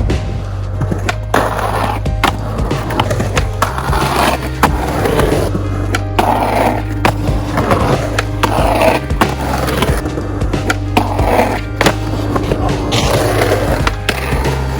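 Skateboard wheels rolling, with repeated sharp clacks of the board popping and landing during street tricks, over background music with a steady bass.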